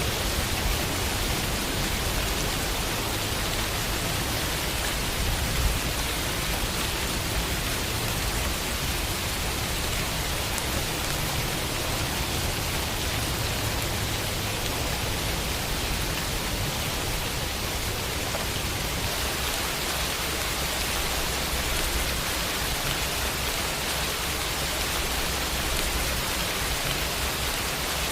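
Steady rain falling and pattering on a window, an even hiss with a low rumble beneath it.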